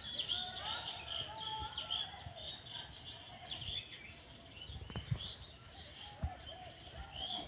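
Several birds chirping in quick, overlapping calls, with a few dull low thumps in the second half.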